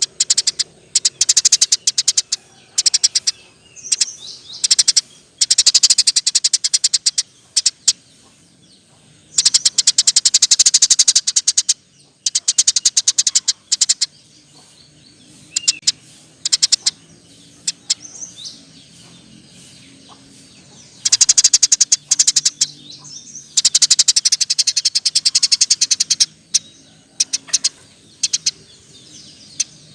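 Eurasian tree sparrow singing hard, giving rapid-fire trains of sharp chirps in bursts of about one to three seconds, with short pauses between them.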